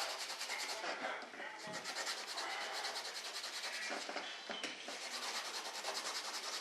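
Sandpaper rubbed back and forth by hand over fiberglass in quick, even strokes, roughing up the surface so glue will bond well.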